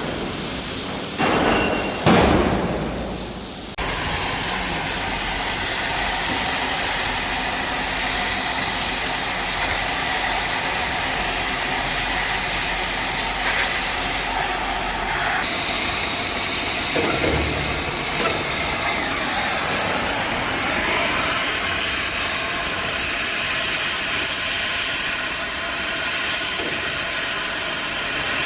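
Two short knocks, then a cutting torch starts up suddenly and runs with a steady, even hiss.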